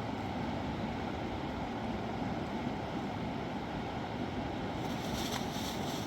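Steady rushing of river water, an even noise with no pitch, and a brief high rustle near the end.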